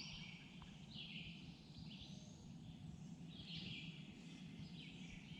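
Faint chirping birdcalls, short high calls repeating every second or so, over a low steady rumble.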